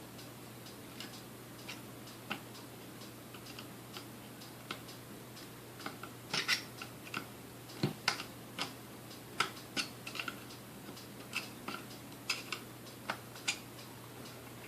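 Light, irregular clicks and taps of small metal parts being handled and fitted into a Sunbeam Mixmaster Model 12 mixer during reassembly. They come more often in the second half.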